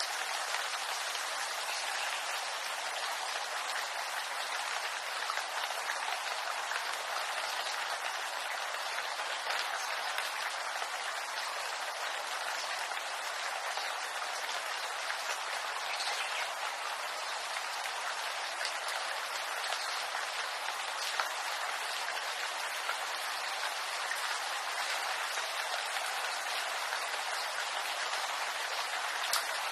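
Steady rain falling on bamboo, an even hiss with scattered patter of individual drops.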